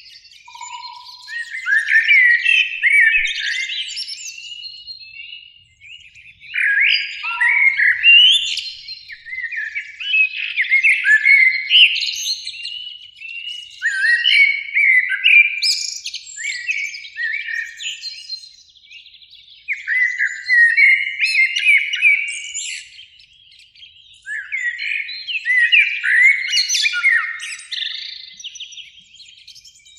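Common blackbirds singing: a run of warbled, fluting song phrases, each a few seconds long, separated by short pauses.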